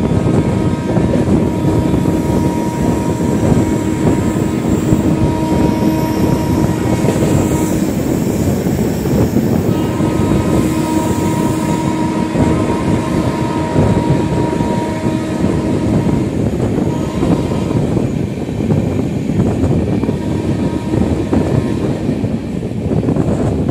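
Electric-hauled intercity express passenger train running on the rails: a loud, steady rumble of wheels and coaches on the track. A steady hum rides on top of it, drops out about eight seconds in, comes back two seconds later and fades after about sixteen seconds.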